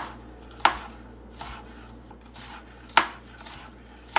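Knife chopping green onions on a cutting board: four sharp, separate chops at an uneven pace, with a pause of about two seconds in the middle.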